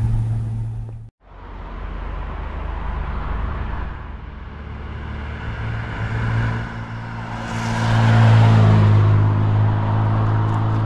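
Rover SD1 2600's straight-six engine as the car drives along the road, cut off briefly about a second in. It grows louder and passes close about eight seconds in, its pitch dropping as it goes by.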